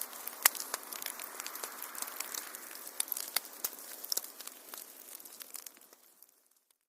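Wood fire crackling, with frequent sharp pops and snaps over a soft hiss; the sound fades out to silence near the end.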